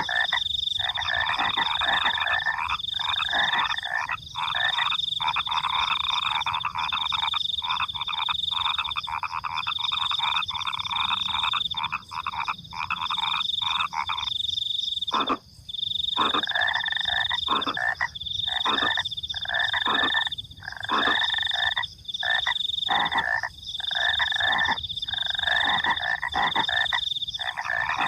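A chorus of frogs calling at night, rapid rattling croaks in long overlapping bouts with brief pauses, over a higher steady chirping of crickets.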